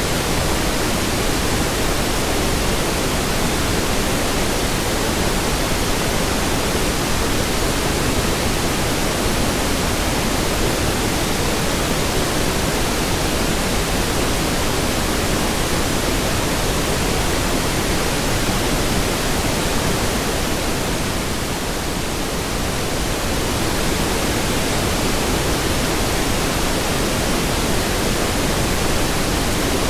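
Steady pink noise: an even, constant hiss with no tones or clicks. It dips slightly in level for a couple of seconds about twenty seconds in.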